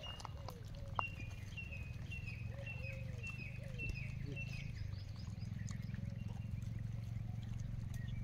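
Outdoor ambience with a steady low rumble. A bird calls a series of short, high, falling chirps, about two a second, through the first half, with a few lower calls and a single sharp click about a second in.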